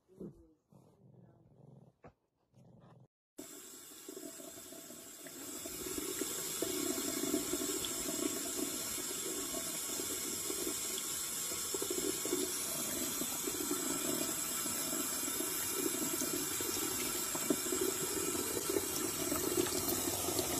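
Water running from a tap in a thin, steady stream into a sink. It starts about three seconds in and gets louder a couple of seconds later.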